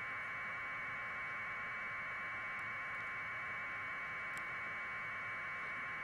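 Steady static hiss held in a narrow middle band, unchanging throughout, with no other sound over it.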